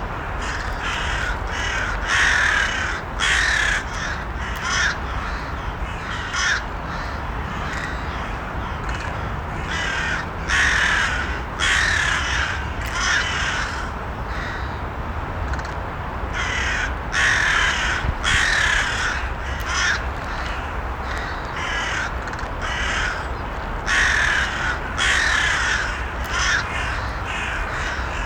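Crows cawing again and again, the caws coming in runs of a few calls every few seconds, over a steady low background rumble.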